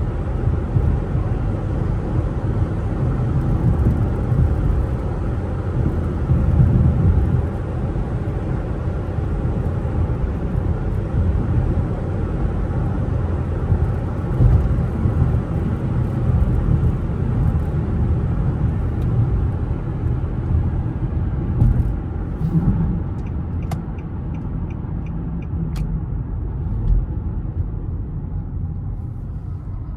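Infiniti G37's V6 and tyres on the road while driving: a steady low rumble inside the car, easing off a little in the last third. A few faint short clicks come in the latter part.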